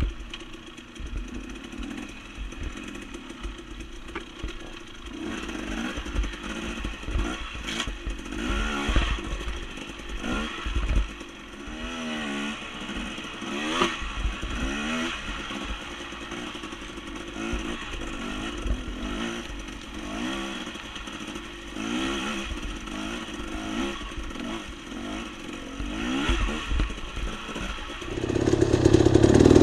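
Dirt bike engine ridden along a rough trail, its pitch rising and falling again and again as the throttle opens and closes. It grows much louder near the end.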